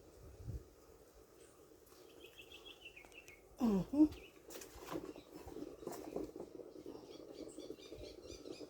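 Birds chirping outdoors: a quick run of high chirps about two seconds in, then rapid repeated chirping in the second half, over a steady low background hum. A short, loud sliding call about three and a half seconds in is the loudest sound.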